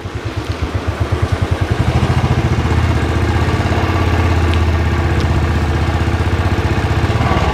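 Royal Enfield motorcycle engine running at low speed with an even thumping beat, picking up slightly about two seconds in and then holding steady as the bike rolls in to park.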